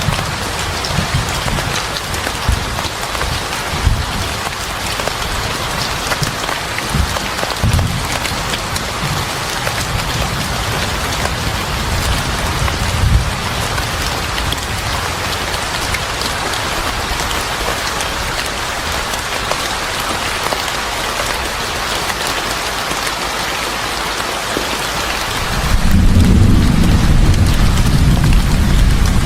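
Steady heavy rain hissing, with low rumbles of thunder; a louder, sustained rumble of thunder swells in near the end.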